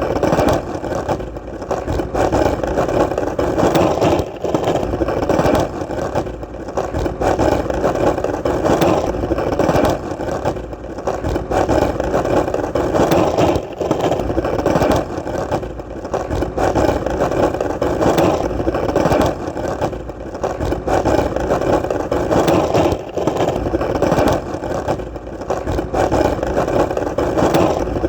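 Skateboard wheels rolling on hard ground: a continuous rumble that swells and dips every few seconds.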